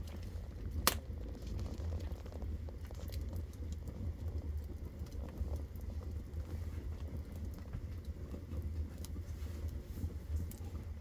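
Wood fire burning in a stove or fireplace: a steady low rumble with scattered crackles and one sharp, loud pop about a second in.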